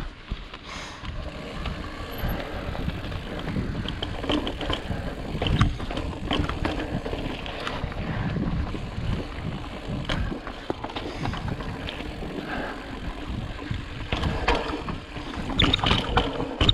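Ibis Ripley full-suspension mountain bike riding over rock: tyres rolling and bumping with frequent irregular knocks and rattles from the bike, over a steady rush of wind noise on the microphone. The knocks come thicker near the end.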